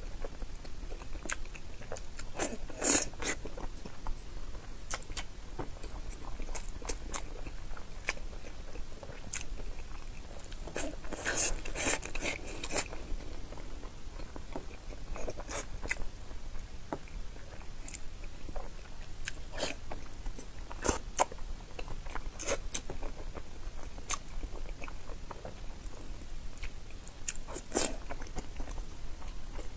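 Close-miked biting and chewing of whole soft-centred boiled eggs in chili oil: irregular wet mouth clicks, with louder clusters about three seconds in and again around eleven to thirteen seconds.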